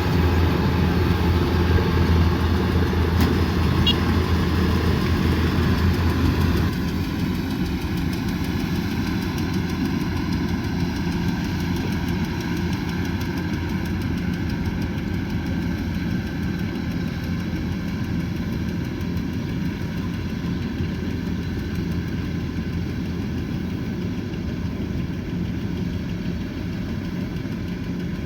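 Kubota combine harvester's diesel engine running steadily. About seven seconds in, a heavy low hum cuts out and the sound drops to a quieter, steady engine note.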